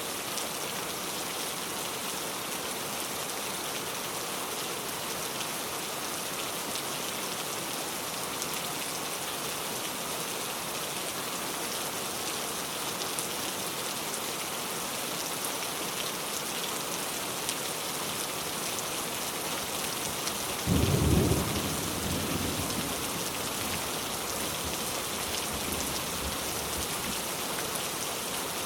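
Steady rain falling and pattering on surfaces, with one sudden clap of thunder about two-thirds of the way through that rumbles away over a few seconds.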